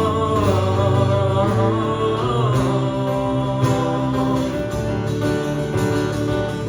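Acoustic guitar playing sustained chords between sung lines. A voice holds a wavering note at the start, which fades out about two and a half seconds in.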